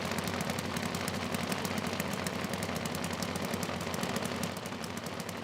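Drag-racing engine idling with a rapid, steady, machine-gun-like popping.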